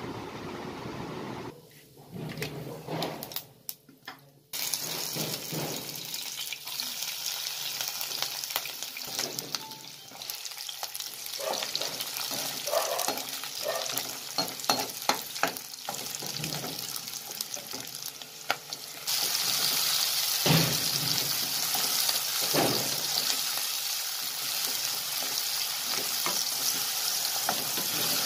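Sliced onions sizzling in oil in a non-stick pan while a wooden spatula stirs them, with scattered scrapes and taps against the pan. The frying hiss starts about four seconds in after a few quieter knocks, and grows louder about two-thirds of the way through.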